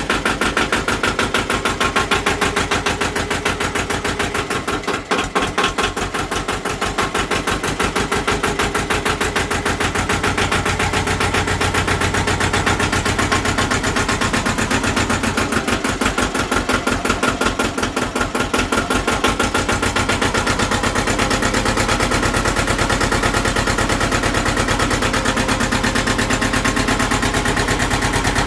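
Ford 1300 compact tractor's glow-plug diesel engine running just after a cold start, with a rapid, even firing clatter. It stumbles unevenly a couple of times, then settles into a steadier idle in the last third.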